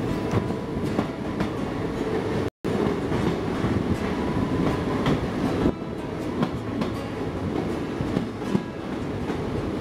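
Broad-gauge passenger train running through a long rock tunnel, heard from inside a coach: a steady rumble with wheels clattering on the rail joints. The sound cuts out for a split second about two and a half seconds in.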